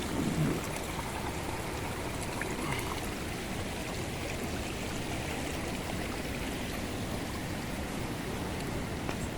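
Water from a small spring-fed stream running and trickling steadily, with a brief low sound falling in pitch just after the start.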